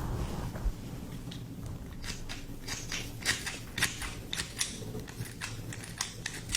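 Wooden ASMR scissors snipping close to the microphone: a run of quick, crisp snips, about three a second, starting about a second in.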